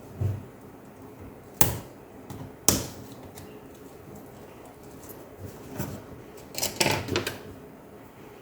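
Sharp clicks and knocks of hands and tools working on a laptop's plastic case while its screws are being undone: a low knock near the start, two loud clicks about a second apart, then a quick run of clicks near the end.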